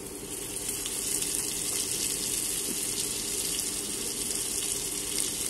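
Onions and potatoes frying in hot mustard oil in an open pressure cooker: a steady sizzling hiss that grows louder less than a second in, as wet ginger-garlic paste goes into the oil.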